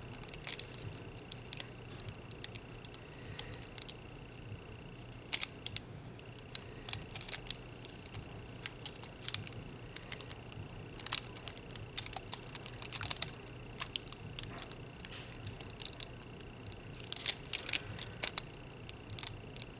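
Nail transfer foil being pressed and rubbed onto a gel-polished fingernail: scattered small clicks and crinkly ticks at an irregular pace, in clusters around five, eleven to thirteen and seventeen seconds in.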